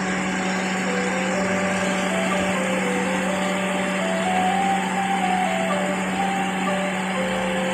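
Car air-conditioning blower fan running steadily: an even motor hum with rushing air noise. A soft music melody plays faintly over it.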